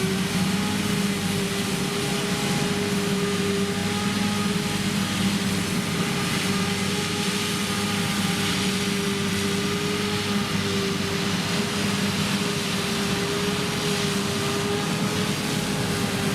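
Krone Big X 1100 self-propelled forage harvester running steadily under full load while chopping triticale, its V12 diesel engine and chopping gear giving a constant drone with a steady hum and whine.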